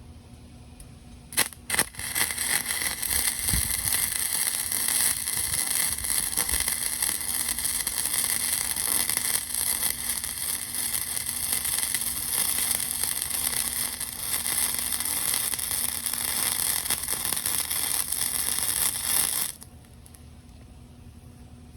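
Electric arc welding: two sharp snaps as the arc is struck, then a long steady hiss of a weld being run, which stops abruptly near the end.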